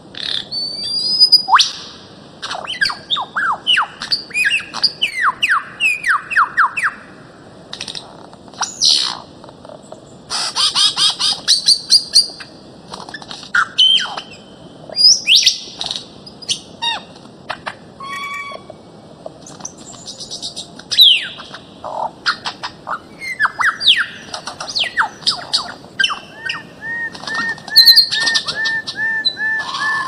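Birds-of-paradise calling: loud squawks mixed with whistled downward-sweeping notes and quick chirps in overlapping bursts, with a fast run of evenly repeated notes near the end.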